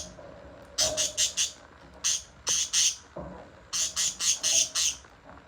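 Lovebirds calling with short, shrill squawks in quick runs of two to five, with brief pauses between runs.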